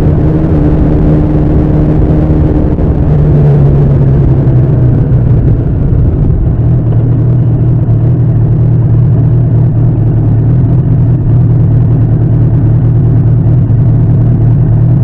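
Suzuki GS1000 air-cooled inline-four in a Bimota SB3 running under way with a loud, steady exhaust note. The pitch drops a little about three seconds in, then holds steady.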